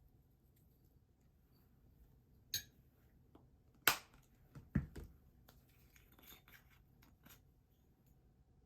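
A handful of short clicks and knocks of objects being handled, the loudest about four seconds in, with a quick pair just under a second later and fainter ticks after.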